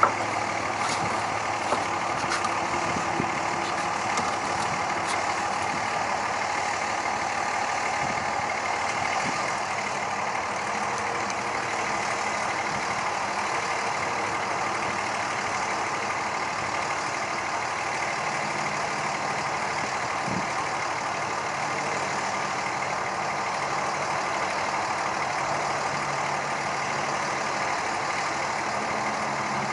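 A truck engine running steadily at idle, with a few sharp clicks in the first few seconds.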